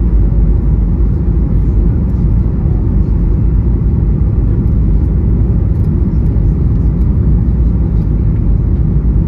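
Steady low rumble of a Boeing 737's engines and the rushing air, heard inside the passenger cabin in flight.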